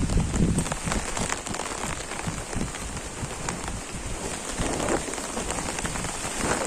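Steady rain falling, an even hiss with many individual drops ticking close by, and a brief low rumble in the first second.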